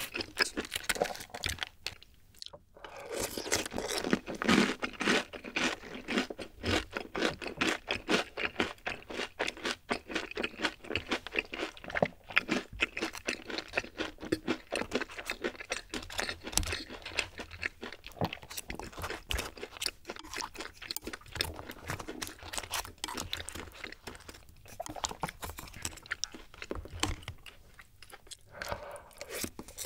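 Close-miked chewing of crispy boneless fried chicken coated in sweet-spicy yangnyeom sauce: a near-continuous run of crunches and wet, sticky mouth sounds, with a brief pause about two seconds in.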